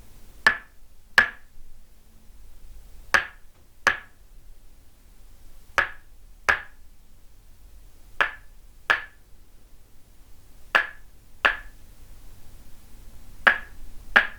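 Tok sen wooden mallet striking a wooden stake held against the body, in a steady rhythm of paired knocks: two quick strikes, then a pause, six times over. Each knock is a sharp, hollow wooden tap with a short ring.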